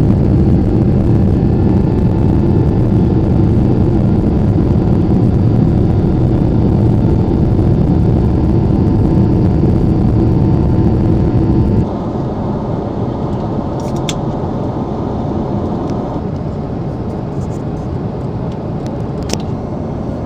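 Boeing 777-300ER's engines heard from inside the passenger cabin as a loud, steady rumble. About twelve seconds in it drops suddenly to a quieter steady cabin hum, with a couple of brief clicks near the end.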